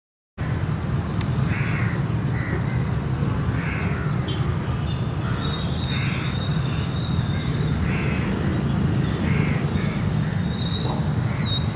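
Crows cawing repeatedly, a short call every second or two, over a steady low rumble.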